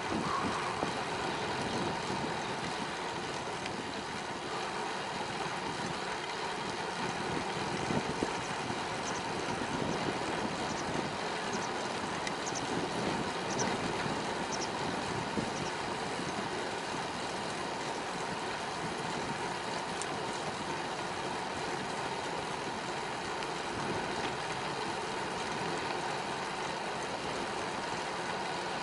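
Steady rushing noise of a bicycle being ridden: wind on the microphone and tyre rumble on the path, with a few faint ticks partway through.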